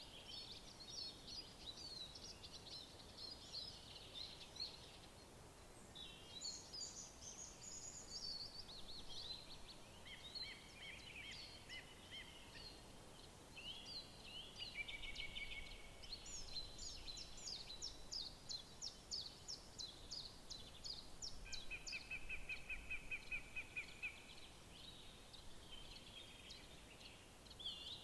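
Several songbirds singing in overlapping phrases over a faint, steady background hiss, with a fast, even trill about three-quarters of the way through.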